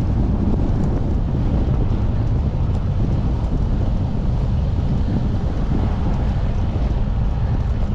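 Wind buffeting a GoPro's microphone while cycling: a steady low rumble, with road traffic noise mixed in.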